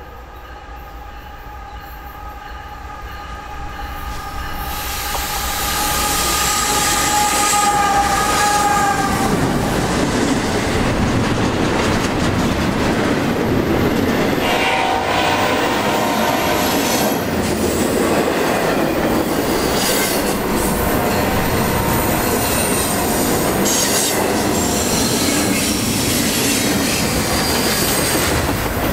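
A freight locomotive's horn sounds a steady multi-note chord that stops about nine seconds in, as the diesel locomotives come close and pass. A long double-stack container train then rolls by, its wheels clattering and squealing on the curved track.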